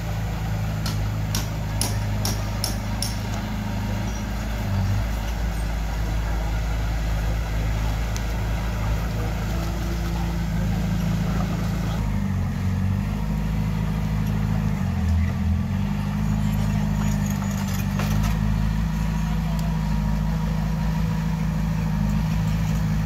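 Heavy-equipment diesel engine running steadily, its pitch shifting and dipping as the load changes about halfway through. A quick run of sharp clicks comes in the first few seconds.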